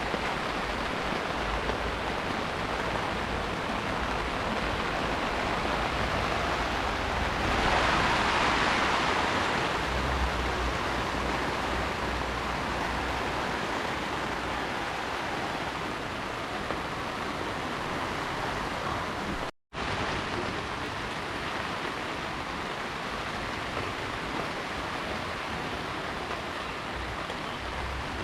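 Heavy rain falling as a steady hiss, swelling louder for a couple of seconds about a quarter of the way in. The sound cuts out completely for an instant about two-thirds of the way through.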